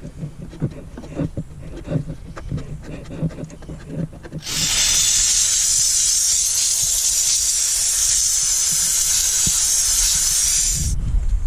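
Scrubbing and rubbing with light knocks, then about four and a half seconds in a Dupray Neat canister steam cleaner's nozzle sends out a jet of steam with a loud, steady hiss that lasts about six seconds and cuts off sharply.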